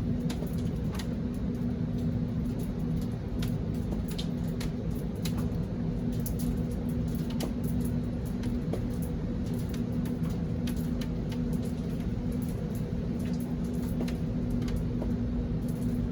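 A steady low machine hum with several held tones, overlaid by irregular sharp ticks of raindrops landing nearby.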